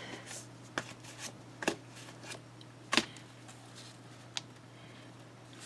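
Stack of cut paper squares being handled and shuffled on a desk: light paper rustles and about six short taps, the loudest about three seconds in.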